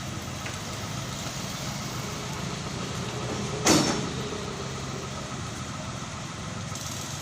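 Truck crane's diesel engine running steadily at a low idle, with one sudden loud short burst about three and a half seconds in.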